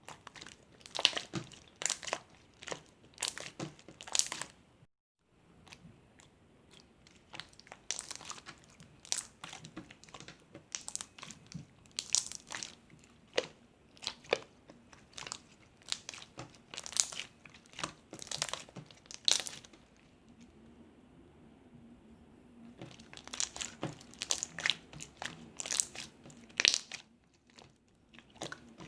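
Slime being squeezed, poked and stretched by hand, giving irregular sharp clicks and pops. There is a short dead-silent gap about five seconds in.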